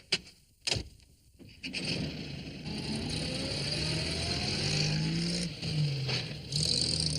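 Two sharp knocks, like a van door shutting, then a small van's engine running steadily as it drives off, with a slowly rising pitch and a hiss of tyres on the road.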